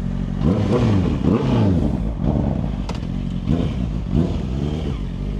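Motorcycle engine running steadily, revved in quick blips that rise and fall in pitch: two near the start and more around the fourth second.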